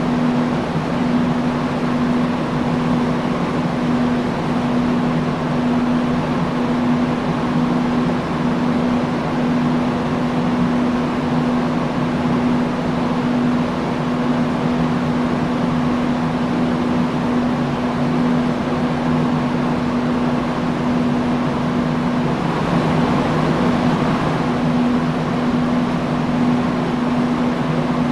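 Industrial fan running steadily: an even rush of air with a constant low hum, brightening slightly about three quarters of the way through.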